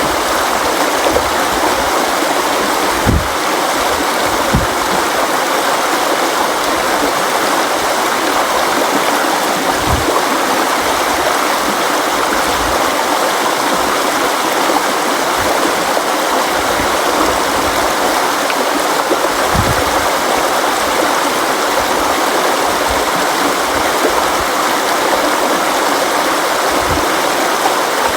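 Steady rushing of a flowing river or stream over rocks, with occasional brief low thuds mixed in.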